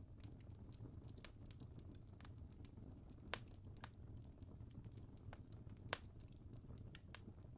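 Fireplace crackling softly over a low steady rumble, with scattered irregular pops; two sharper pops come about halfway through and near the end.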